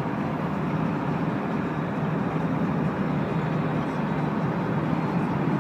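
Steady road and engine noise of a moving vehicle recorded by a dashcam, even throughout with no impact or single loud event.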